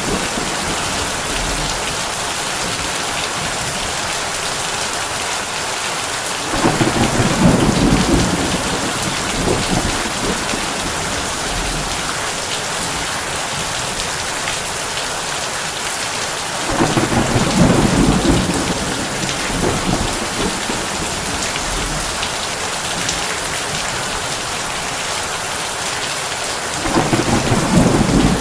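Heavy rain falling steadily on a tin roof, a dense even hiss, with thunder rumbling low three times about ten seconds apart, the last starting near the end.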